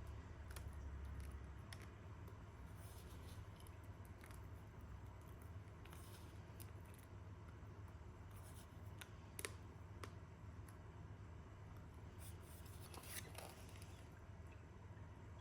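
Quiet room with faint scattered clicks and light scrapes of small objects being handled, over a low steady hum.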